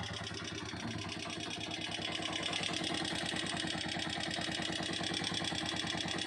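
Honda TMX125 Alpha motorcycle's single-cylinder four-stroke engine idling with a steady, even beat, getting a little louder about two seconds in.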